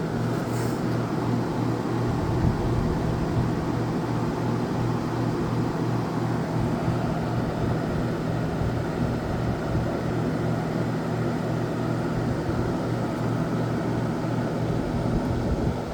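Kenmore 7500 BTU window air conditioner running on high cool: its Tecumseh AK reciprocating compressor purrs with a steady low hum under the even rush of the fan.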